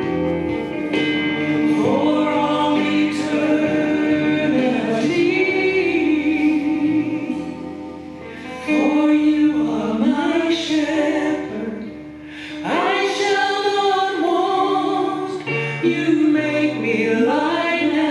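Worship singing with musical accompaniment: sung phrases held over sustained low notes, with two short dips between phrases.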